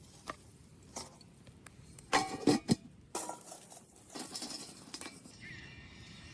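Cooking gear clinking and knocking: several separate light clicks, with a louder cluster of clinks about two seconds in.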